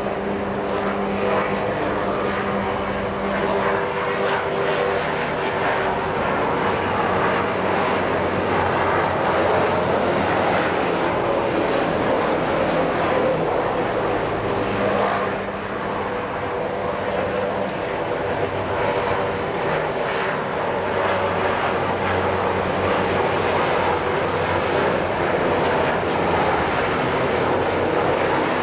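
Helicopters flying low overhead: a loud, steady rotor and engine drone that eases briefly about halfway through, then builds again.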